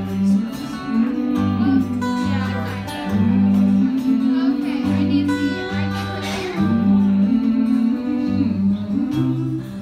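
Acoustic guitar playing an instrumental break between verses of a folk-style song: strummed chords over a repeating bass line, with a melody line above.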